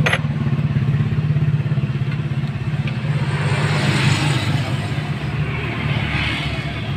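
A vehicle engine running steadily at idle, a low even hum, with one sharp click near the start as hands work at the fuel filter's hose fittings.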